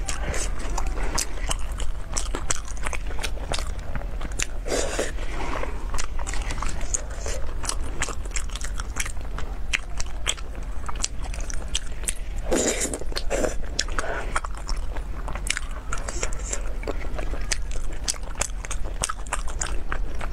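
A person chewing and biting mouthfuls of braised pork close to the microphone, with a steady stream of sharp mouth clicks and smacks.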